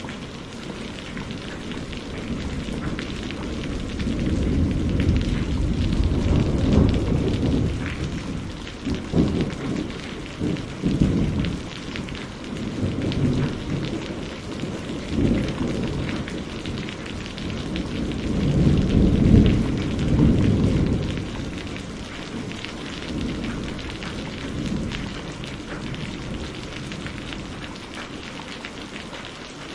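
Thunderstorm: steady rain falling on surfaces, with rolling thunder that swells and rumbles twice, the louder peal about two-thirds of the way through, before dying away to rain alone near the end.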